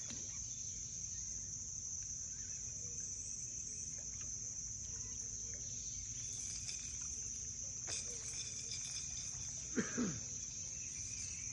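Insects chirring in a steady, high-pitched chorus. About ten seconds in, a short sound falls in pitch; a faint click comes about two seconds before it.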